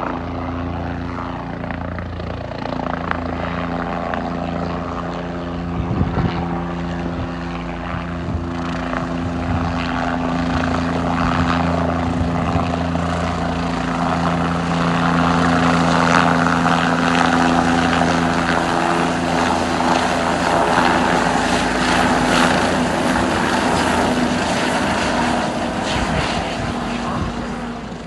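Bell 407 helicopter running, its single turbine engine and main rotor giving a steady drone with low hum tones. It grows louder through the middle and eases off near the end.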